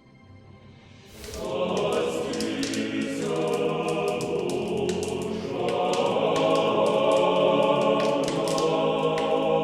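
Choir singing a chant as music, swelling in about a second in after a faint start and then holding steady.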